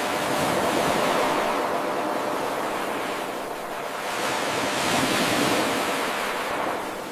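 Ocean waves washing in, a steady rush of surf that swells and falls back twice. It starts with an abrupt jump in level where the 8-second wave loop begins again.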